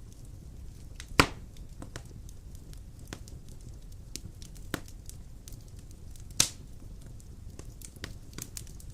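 Large logs burning in a stone fireplace: a steady low rumble of flames with scattered crackles, and two loud sharp pops, one about a second in and one a little past six seconds.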